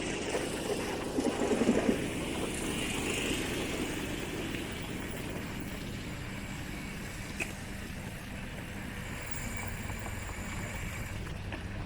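Steady road noise, with a brief patch of rattling between about one and two seconds in.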